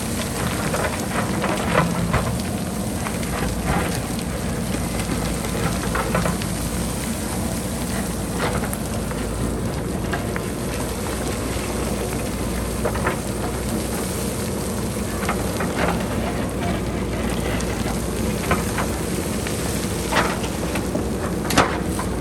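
Boulders and pebbles clattering and rattling down a hillside in irregular knocks, a few sharper strikes among them, over the steady running of a JCB backhoe loader's diesel engine.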